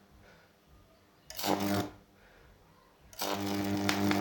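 High-voltage arc from a microwave-oven transformer buzzing harshly across a Jacob's ladder's copper wires, struck in bursts. One brief burst comes about a second and a half in, then a longer, louder one from about three seconds in.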